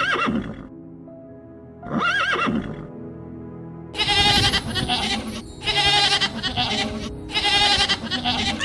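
Animal calls over background music: two short calls rising and falling in pitch, then from about four seconds in a series of louder, harsh calls about a second each.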